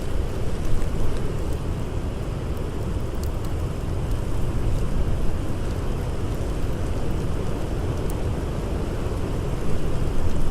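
Steady low rushing of blizzard wind, with a few faint, scattered crackles of a campfire.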